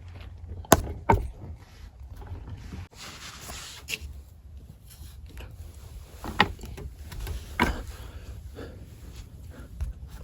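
A person clambering through a cramped crawl space: scattered knocks and bumps against wood, with rustling and scraping between them, over a low steady rumble.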